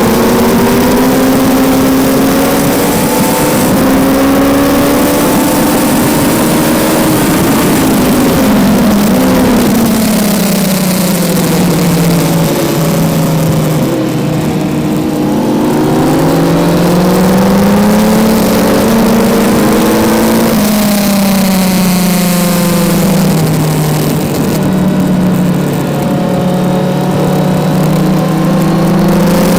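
Kawasaki Z900 inline-four engine at track pace, heard from on board. Its note falls and climbs as the bike brakes into corners and accelerates out of them, and it steps down suddenly with a gear change about two-thirds through, over constant wind rush.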